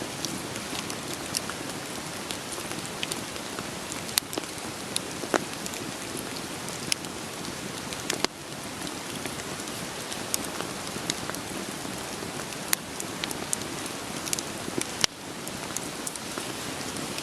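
Wood fire crackling, with irregular sharp pops and snaps of burning logs, over a steady hiss of rain.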